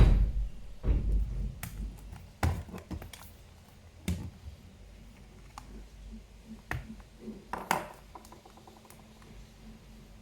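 Irregular clicks and knocks from handling hard objects. The loudest knock comes at the start and another about a second in, with a quick run of small clicks near the end.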